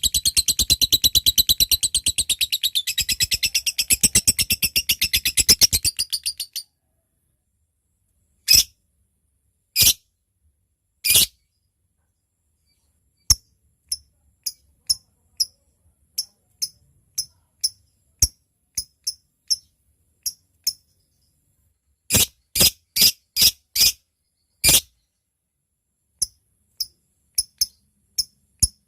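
Lovebird giving its long rapid chattering trill ("ngekek") for about six seconds, then, after a pause, single sharp chirps and a run of short ticking calls ("ngetik") about one or two a second, with a quick cluster of five louder calls about two-thirds of the way through.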